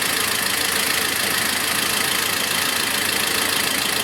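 Toyota 2TR four-cylinder petrol engine idling steadily. The idle does not change while 12 volts are fed straight to the exhaust camshaft's VVT-i oil control valve, a sign that the variable valve timing is not responding.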